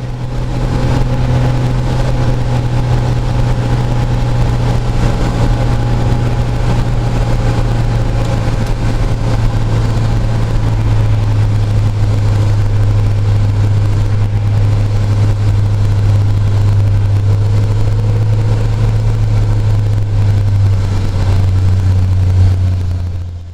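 Small Cessna's piston engine and propeller droning steadily inside the cabin on final approach, the pitch easing slowly downward and dropping a little more near the end as power comes off for landing.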